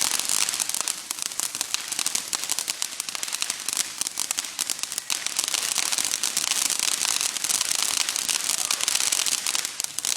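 A firework crackling continuously for about ten seconds: a dense stream of tiny rapid pops and sizzles.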